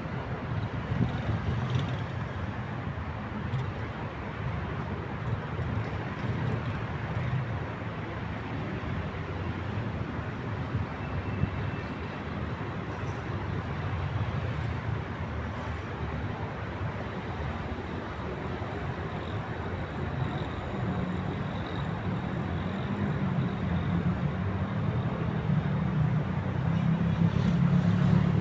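Urban traffic ambience: a steady hum of city traffic with a low rumble. A vehicle grows louder over the last several seconds.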